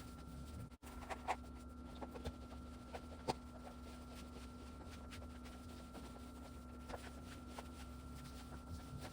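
Faint room tone: a steady hum with two constant tones, and scattered light taps and clicks, the clearest about three seconds in.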